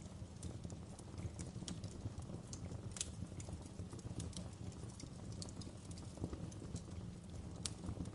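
Wood fire burning in a fireplace: irregular sharp crackles and pops over a low, steady rumble of the flames. The loudest pops come about three seconds in and near the end.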